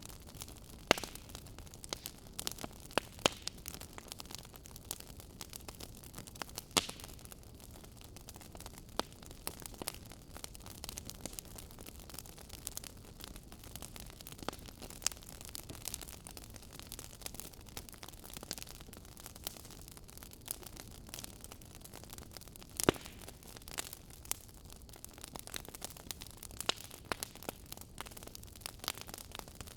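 Fire crackling: scattered, irregular pops and crackles over a soft steady hiss, with a few sharper, louder pops standing out.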